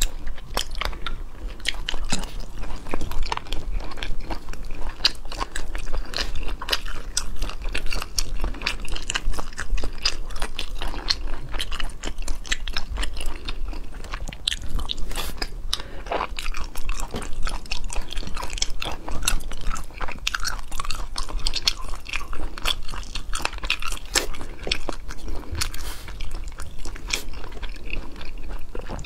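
A person chewing and biting chili-sauced seafood: a dense, continuous run of mouth clicks and smacks.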